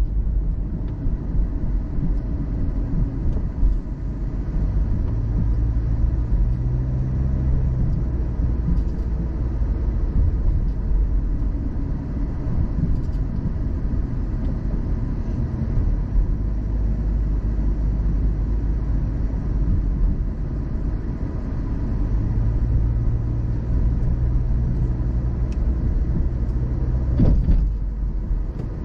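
Car driving along the road: a steady low rumble of tyres and engine, with the engine hum growing stronger in two stretches. There is a short swishing sweep near the end.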